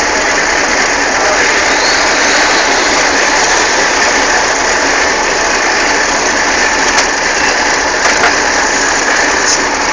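Competition truck engine running steadily with a dense, buzzing mechanical rattle.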